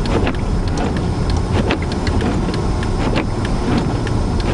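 Inside a car driving through a blizzard: a steady low rumble of engine, tyres and wind, with irregular sharp ticks several times a second.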